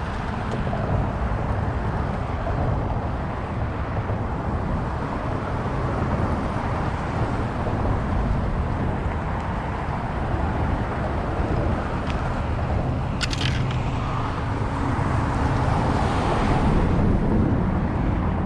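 Steady road traffic noise from cars passing along the causeway highway, with a brief sharp click about two-thirds of the way through.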